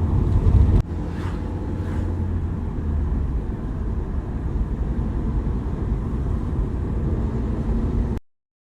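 Steady low rumbling background noise, with no clear tone or rhythm, that cuts off suddenly about eight seconds in.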